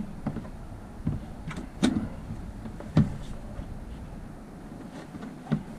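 Several separate knocks and clunks of hard objects being handled and set down, the loudest about three seconds in, over a low steady rumble.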